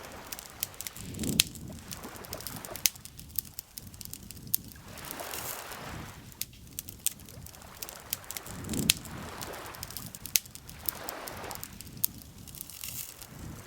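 Wood campfire crackling with frequent sharp pops, over gentle lake water lapping in slow swells every few seconds.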